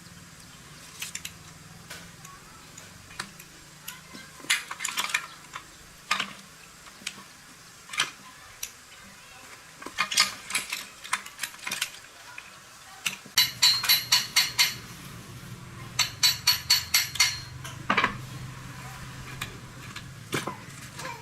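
Metal hand tools and motorbike parts clinking and knocking during repair work, with scattered sharp clicks and, in the second half, two runs of quick ringing metal taps at about seven a second.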